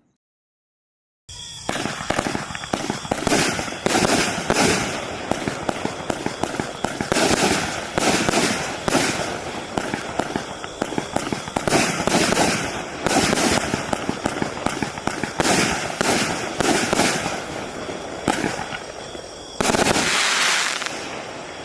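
Bright Star Fireworks 'Cut Throat Mercenary' 25-shot fan barrage firing: after about a second of silence, a fast string of shots, each followed by crackle, with a louder crackling burst near the end.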